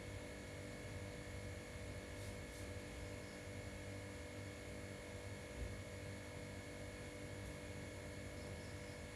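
Faint steady hum over room tone, with a soft low thump about halfway through.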